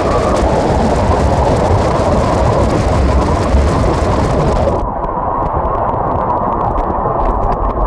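Telangana Express train running at speed, a steady loud rumble and rush of wheels on rail, played back at double speed. About five seconds in, the hiss suddenly drops out, leaving the lower rumble with scattered faint ticks.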